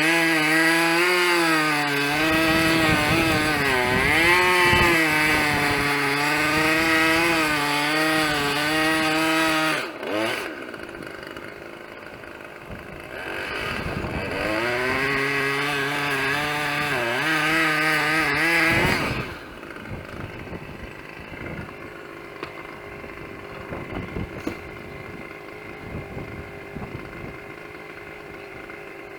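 Chainsaw running at high revs, its pitch dipping and recovering as it cuts through wood. It eases off about ten seconds in, revs again for several seconds, then drops away about two-thirds of the way through, leaving a quieter background with faint knocks.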